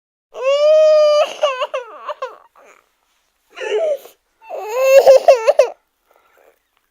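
High-pitched voice sounding without words in three bursts: a long held note at the start, then quick slides up and down in pitch.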